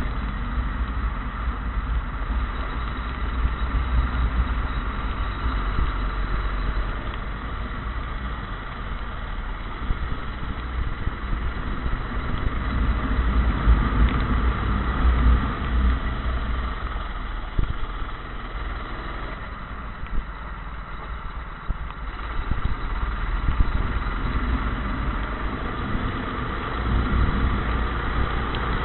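Go-kart engine running continuously, with a heavy low rumble underneath.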